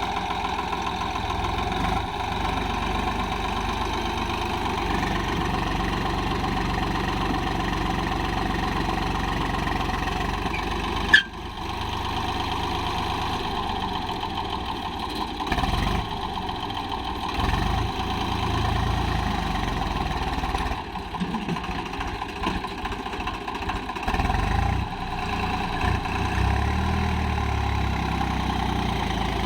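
Swaraj tractor's diesel engine running steadily, with one sharp loud knock about eleven seconds in.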